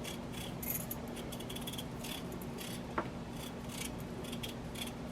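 A knife scraping the peel off a potato in short, soft strokes, about two or three a second, over a low steady hum. There is one sharp click about three seconds in.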